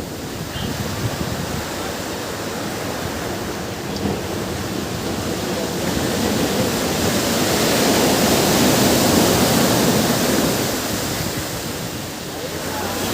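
Ocean surf on a beach: a steady wash of waves that swells to a peak about eight seconds in and then falls back as the wave recedes.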